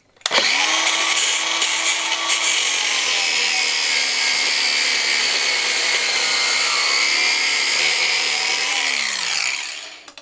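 Handheld power cutting tool spinning up, cutting through a steel bolt with a steady hissing grind, then winding down with falling pitch near the end.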